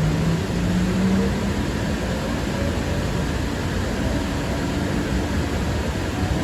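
Steady running noise of a Valley Metro light rail car in motion, heard from inside the passenger cabin, with a faint low hum in the first second or two.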